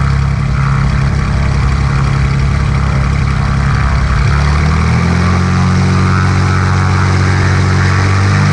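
Cessna light aircraft's piston engine and propeller running steadily and loudly, its note shifting up about four seconds in.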